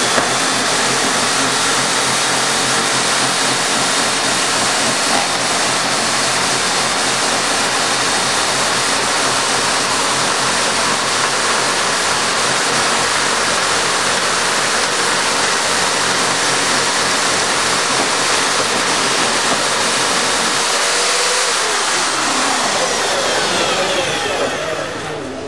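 Homemade slot milling machine, its cutters driven by electric hand drills, running loud and steady while milling slots for fruit trays. Near the end the motors wind down, their pitch falling as the machine shuts off.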